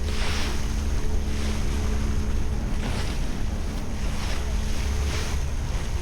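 Strong wind buffeting the microphone, with rough waves washing and splashing in several surges, over a faint steady hum.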